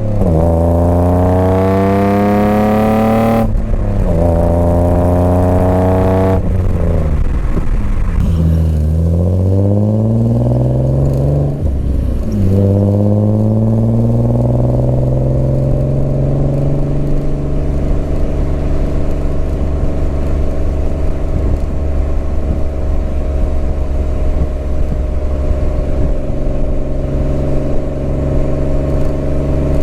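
BMW M50B25 inline-six breathing through stainless headers and a 3-inch stainless exhaust, pulling hard with revs climbing and dropping back at each upshift several times, with one spell of falling revs in between. About halfway through it settles into a steady cruise.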